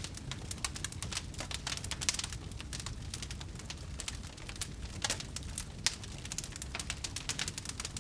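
Wood fire burning in a fireplace: a dense run of small crackles and sharp pops over a low, steady rumble of flame, with a few louder pops about two and five seconds in.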